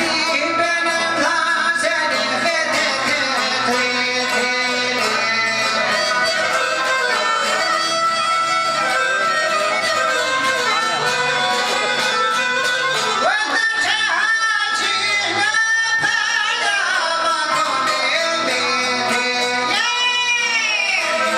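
Albanian folk song: singing with ornamented, wavering notes over bowed fiddle and plucked-string accompaniment.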